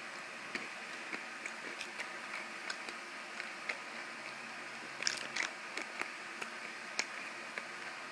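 A crunchy pretzel being chewed: small irregular crunches with a denser cluster about five seconds in, over a steady low hiss.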